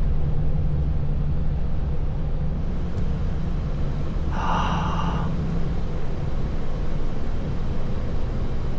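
Heavy truck's engine running steadily, heard from inside the cab. About four and a half seconds in, a short hiss-like burst under a second long stands out above it.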